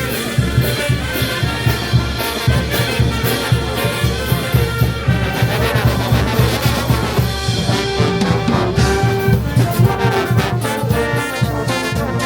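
Brass band playing: brass melody over a steady low beat.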